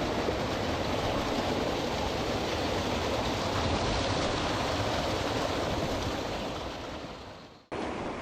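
Mountain stream water rushing over rocks in a steady hiss, fading out near the end.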